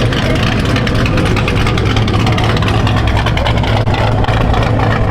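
Car engine running with a steady low rumble, loud and continuous, with a noisy hiss over it.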